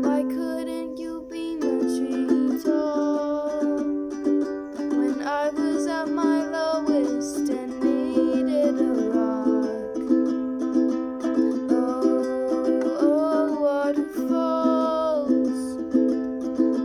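A voice singing a melody over a steadily strummed stringed instrument, likely a ukulele.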